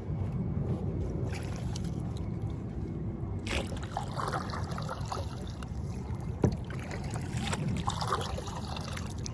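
Water lapping and trickling around a kayak hull over a steady low rumble, with a few handling knocks; the sharpest knock comes about six and a half seconds in.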